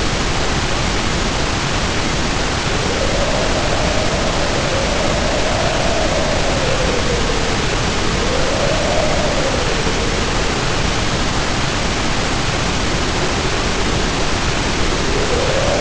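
Storm sound of heavy rain hissing steadily under howling wind. The howl is a low whistling tone that swells and glides up and down, rising about three seconds in, again about eight seconds in, and near the end.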